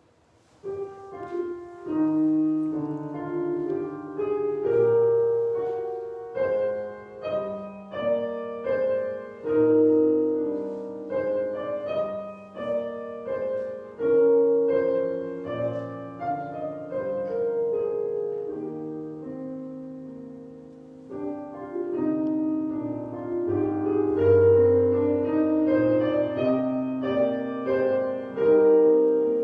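Piano playing a calm, slow piece of music; it softens about two-thirds of the way through, then grows louder again.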